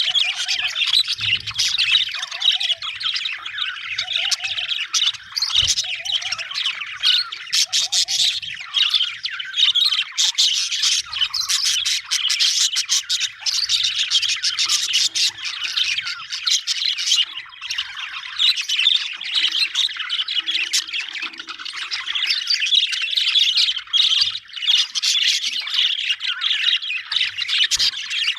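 Budgerigars (budgies) chattering, chirping and squawking over one another without a break, the dense warbling of a group. In the first few seconds a short lower note repeats about once a second underneath.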